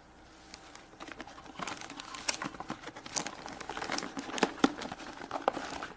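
Crinkling and crackling of toy packaging handled by hands, a dense run of small clicks and rustles that starts about a second in.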